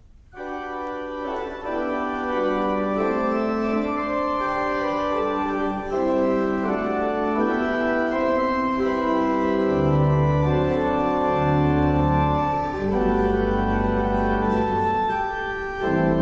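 Church organ playing slow, sustained chords, starting about half a second in; deep bass notes join about two-thirds of the way through.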